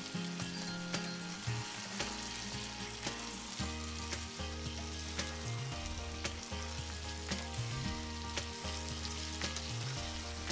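Spiced chicken and potatoes sizzling in hot oil in a pan as a spatula stirs them, with scattered clicks and scrapes against the pan. Soft background music with a low bass line plays underneath.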